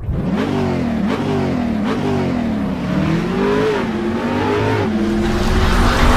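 Car engine revving up and down several times, then held at a steady pitch near the end: the engine sound effect that opens a channel intro vignette.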